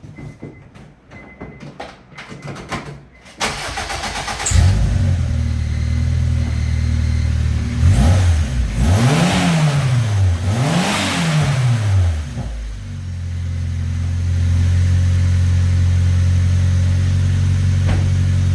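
Turbocharged Honda D17 four-cylinder engine started: a few clicks, then it cranks and catches about four seconds in and idles. It is blipped twice, the pitch rising and falling each time, with a little blow-off valve dump, then settles back to a steady idle.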